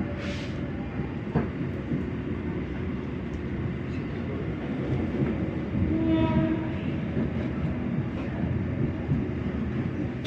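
Passenger train running along the rails, a steady low rumble of the carriage, with a short hiss near the start and a brief pitched tone about six seconds in.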